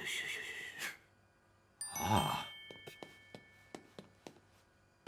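Cartoon sound effects: a short hiss-like sound, then a bright chime-like ding about two seconds in with several ringing tones, followed by a string of light, fading ticks.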